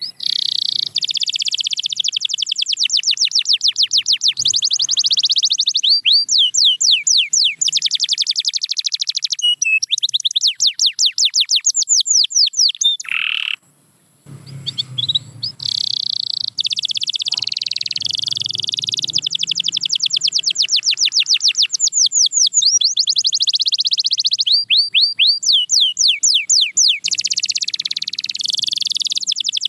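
Domestic canary singing a long, fast song of rapid repeated sweeping notes and rolling trills, with a brief break a little before halfway through.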